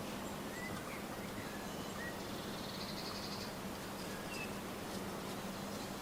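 A few faint, short bird chirps from small garden birds, scattered over a steady outdoor hiss with a faint low hum.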